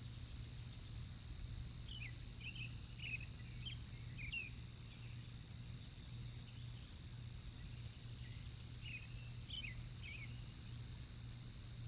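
Short, high chirping bird calls in two bursts: a run of about six quick notes a couple of seconds in, and three or four more near the end, over a faint steady hum.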